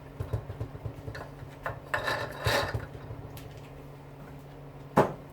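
Scrap dishwasher parts being handled and rubbed together with small clicks and scrapes, then one sharp clank about five seconds in as a tossed piece lands.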